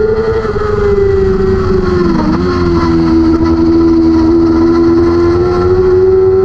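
600cc racing motorcycle engine at high revs, heard onboard. The revs fall about two seconds in, then hold steady and slowly climb again.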